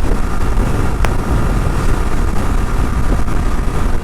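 Wind buffeting the microphone over a motorcycle running while riding: a loud, steady rumble. A brief click sounds about a second in.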